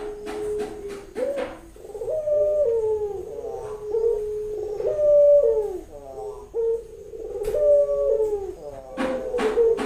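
Female barbary dove (burung puter) cooing over and over, the call a hen in breeding condition gives to summon a male: repeated low notes that step up and glide down. A few sharp clicks come near the start and again about nine seconds in.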